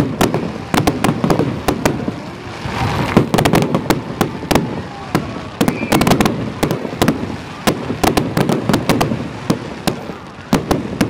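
Aerial fireworks display: a rapid, continuous string of sharp bangs from shells bursting overhead, several a second.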